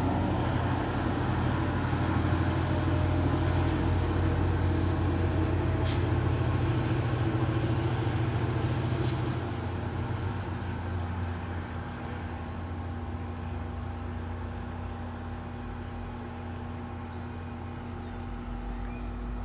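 Diesel commuter train locomotive running as the train pulls away: a steady engine drone with a high whine, loud for about nine seconds, then fading while the whine falls in pitch as the train moves off.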